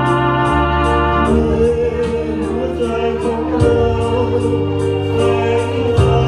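Instrumental music: electronic organ chords held and changed every second or so over a steady beat with regular cymbal ticks.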